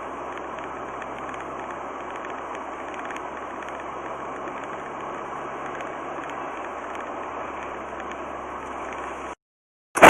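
Steady road and engine noise of a car driving, as picked up by a dash cam. It cuts off abruptly near the end, followed by a brief loud burst.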